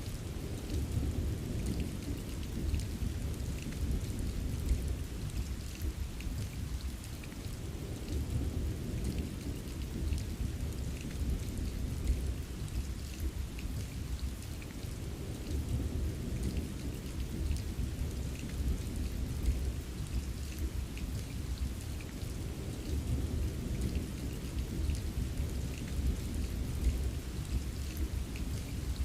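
Steady rain with a continuous low rumble of distant thunder underneath and faint scattered drops tapping.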